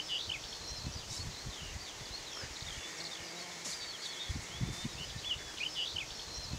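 Birds singing in a meadow: many short chirps and gliding whistles from several birds, over low, irregular rumbles.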